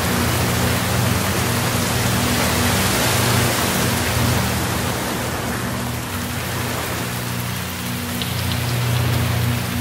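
Steady rain falling as a dense, even hiss, easing a little about halfway through. A low steady drone runs underneath.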